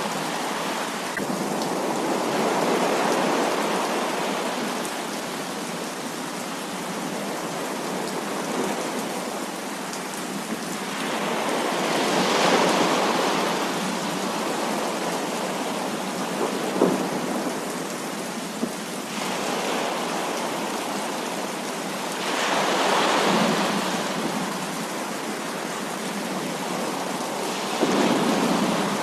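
Heavy rain falling steadily, with thunder rolling in and fading away three times and a couple of short, sharp cracks just past the middle.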